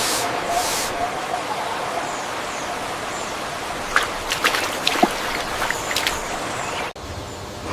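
A steady rushing noise, with a few sharp clicks and taps about four to six seconds in; it cuts off abruptly near the end.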